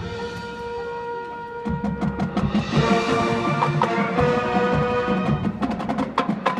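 High school marching band playing: held brass and wind chords, softer for about the first second and a half, then drum and pit percussion strikes join over the sustained chords.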